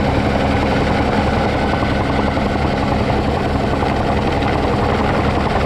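Volkswagen Baja Bug's air-cooled flat-four engine idling steadily, heard from inside the cab.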